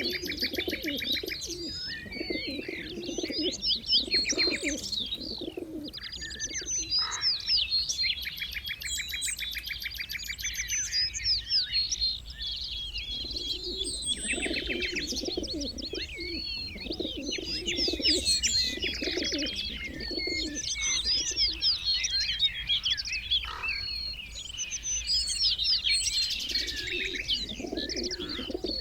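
Many birds chirping and trilling at once in a dense chorus. Low cooing calls come in phrases several times, near the start, midway and near the end.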